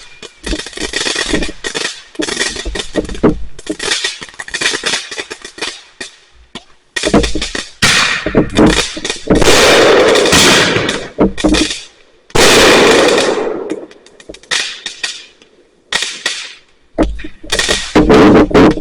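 Fireworks going off: rapid volleys of sharp crackling pops and bangs, with a brief lull, then two longer, louder stretches of dense crackle about halfway through.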